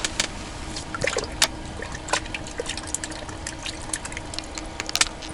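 Water dripping and trickling into an ice-fishing hole: scattered sharp ticks and a few small pitched plops of drops hitting the water.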